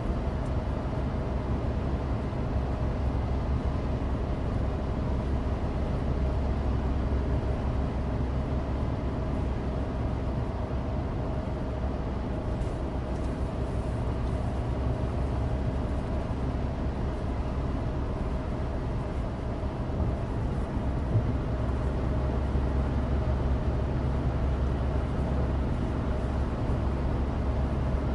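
Steady in-cabin drone of a Suzuki Alto Turbo RS kei car cruising. Its 660 cc turbocharged three-cylinder engine runs under a constant rumble of studless winter tyres on dry asphalt.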